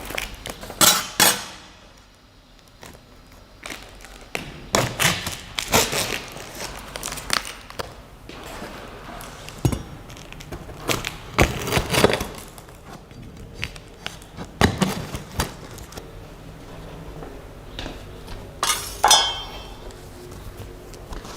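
Unboxing: cardboard and packing material handled and pulled apart, with irregular knocks, thunks and clinks as boxed parts are lifted out and set down.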